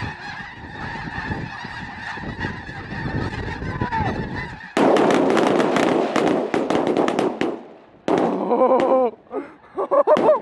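A large flock of snow geese and white-fronted geese calling overhead in a dense, steady chorus of honks. About halfway through, a sudden much louder burst of rapid crackling lasts a couple of seconds. After it come a few close, loud goose honks that bend in pitch.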